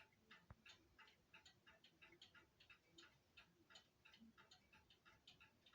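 Cuckoo clock movement ticking faintly and evenly as its escapement runs, with quick, regular ticks.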